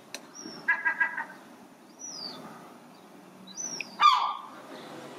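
Birds calling: a short high whistle that dips in pitch, repeated three times. About four seconds in comes a louder call that falls in pitch.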